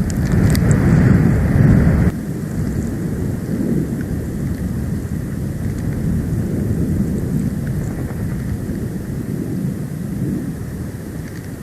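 Storm wind buffeting the outdoor nest-cam microphone: a low, gusting rumble, loudest for the first two seconds, then dropping suddenly and running on more steadily.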